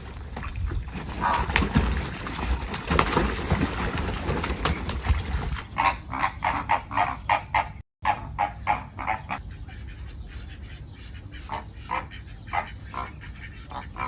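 Birds calling in runs of short, rapid calls, with a rough rumbling noise under the first half.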